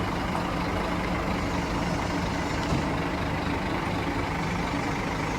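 Diesel engine of a Scania 410 double-decker bus running steadily at low revs.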